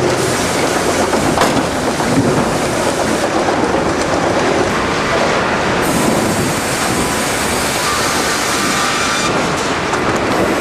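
Pallet-board sawmill line running: a loud, steady industrial clatter with a sharp knock about a second and a half in.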